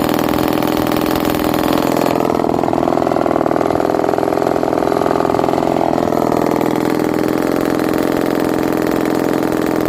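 Vintage Lombard Super Lightning chainsaw's two-stroke engine running steadily at low speed. Its speed swells slightly and settles back in the middle.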